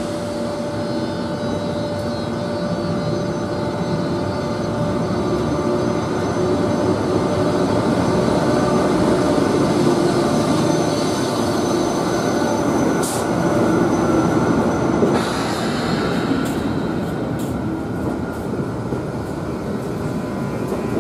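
SNCF BB 26000 electric locomotive hauling a TER 200 train of coaches rolling past on the platform track: steady whining tones over a dense rumble. From about thirteen seconds in, sharp clicks follow as the coaches' wheels go by.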